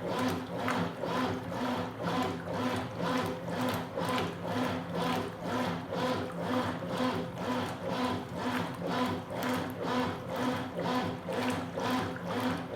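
Consul Super Cargo 8 kg top-loading washing machine agitating a load of towels: a steady motor hum with an even pulse about twice a second as the agitator swings back and forth.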